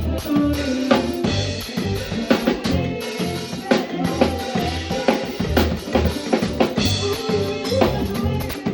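Live band playing an instrumental passage, a drum kit keeping a steady beat with regular kick and snare hits under held low bass notes and other instruments.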